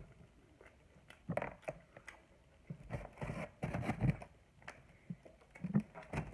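Close-miked chewing and mouth sounds of eating, with small scrapes and taps, coming in irregular bursts.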